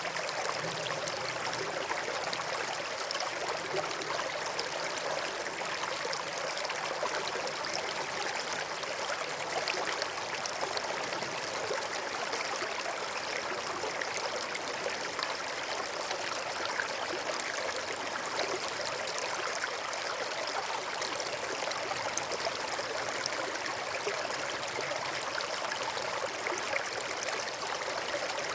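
Brook water running steadily, an even rush of flowing water.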